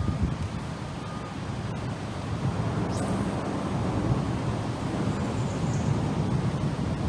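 Wind buffeting the microphone outdoors: a steady, uneven low rumble with no distinct events, and a brief faint high chirp about three seconds in.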